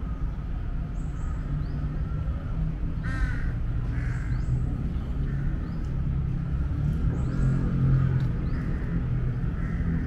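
Birds calling: one loud call about three seconds in, fainter calls after it, and short high chirps, over a steady low rumble.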